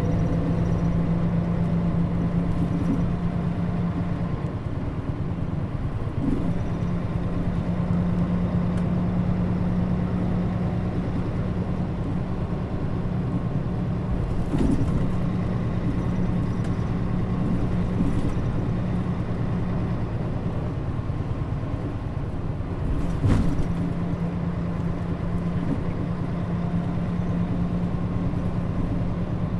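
Inside a Mitsubishi Fuso Aero Star bus (Nishinihon body, KL-MP35JM) running along at a steady engine speed, its diesel engine holding an even drone. There are occasional knocks and rattles from the body over bumps, the sharpest about three-quarters of the way through.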